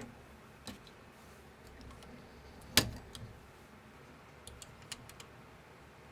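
Plastic building bricks being handled and pressed together. There is one sharp click about three seconds in, a fainter one near the start, and a few light clicks near the end.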